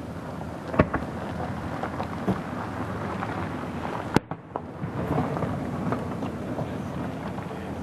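Fireworks going off: a few separate bangs, the loudest about a second in, over a steady rumbling background.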